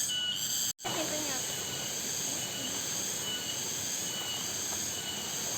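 A high, shrill insect chorus, pulsing at first; it cuts off abruptly under a second in and returns as a steady drone, with faint distant voices.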